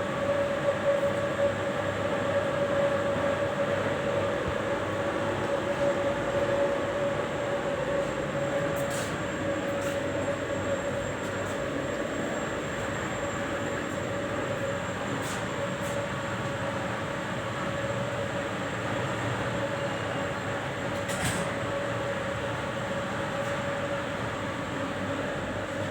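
HVAC mechanical room drone: air-handling fans and plant equipment running steadily, a constant rush of air and machinery with a steady mid-pitched tone on top, and a few faint clicks.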